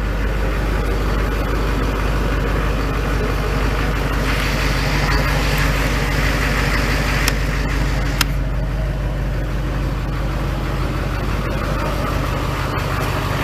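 Duramax 6.6-litre V8 turbodiesel of a 2005 Chevy Silverado 2500 HD idling steadily with an even diesel rumble. A rushing hiss rises over it for a few seconds in the middle, and there are two sharp clicks a second apart.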